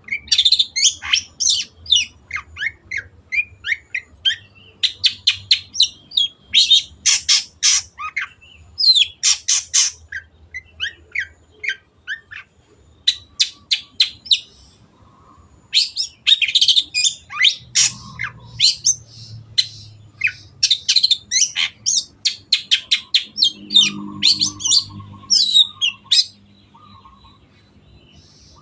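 Long-tailed shrike (cendet) singing a fast run of sharp, high notes in long bursts, with brief pauses about twelve and fifteen seconds in, stopping a couple of seconds before the end.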